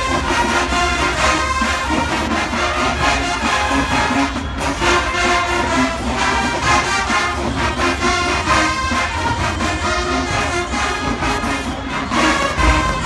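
Marching band brass section playing a tune continuously, trombones and trumpets to the fore.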